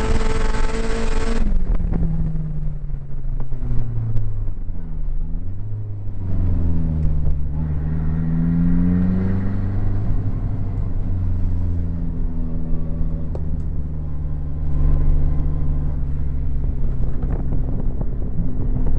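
Turbocharged Nissan SR20DET four-cylinder engine heard from inside the car's cabin. It runs at high revs, then drops off sharply about a second and a half in, and runs on at low revs, its pitch dipping and rising a couple of times before settling.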